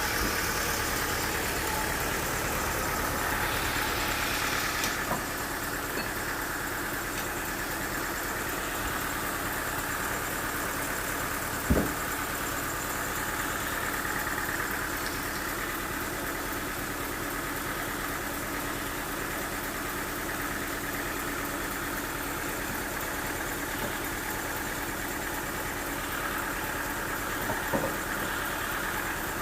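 Sawmill machinery running steadily, with a single sharp knock about twelve seconds in and a couple of lighter clicks.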